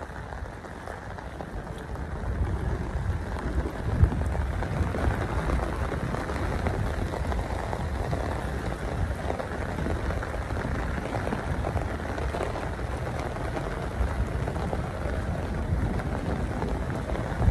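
Steady rain falling on wet ground and puddles, with a low rumble underneath and a single sharp knock about four seconds in.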